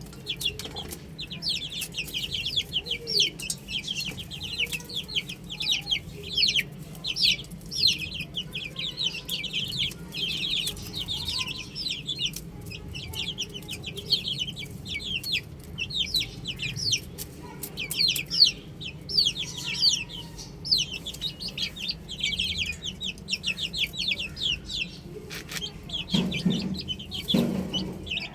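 A brood of baby chicks peeping without a break: many short, high, falling peeps overlapping into a dense chorus. A low steady hum lies underneath, and two dull thumps come near the end.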